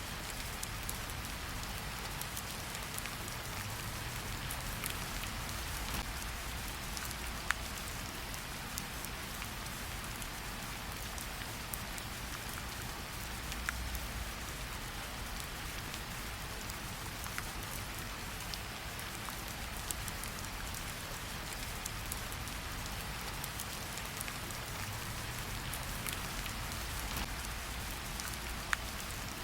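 Steady rain falling, an even hiss with scattered sharper drips and a low rumble underneath.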